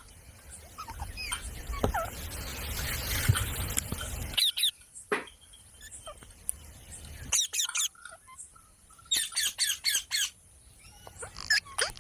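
Parrot squawking in short, sharp calls, including a quick run of about six calls a little past halfway. A rushing noise with a few faint chirps fills the first third and cuts off abruptly.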